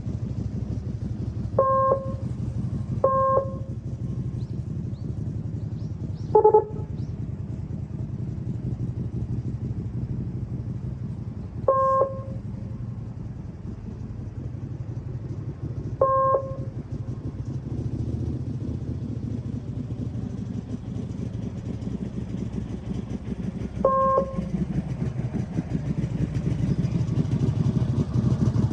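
Motorcycle engine running steadily at low speed, with short electronic beeps five times and one louder, lower short tone about six and a half seconds in. The engine grows louder near the end.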